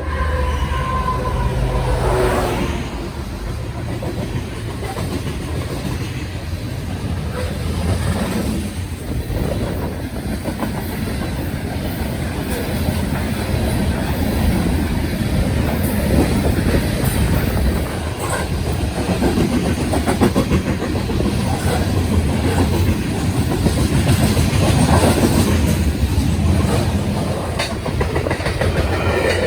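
Train passing on the tracks, its wheels clicking over the rail joints over a steady low rumble. The end of a horn blast fades out about two seconds in.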